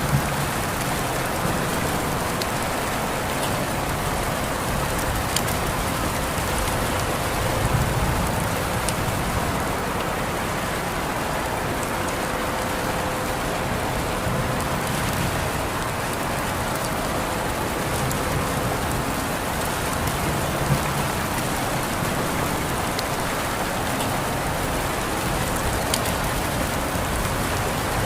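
Steady rain falling on a surface, an even hiss with scattered individual drops ticking through it and a few louder drop hits now and then.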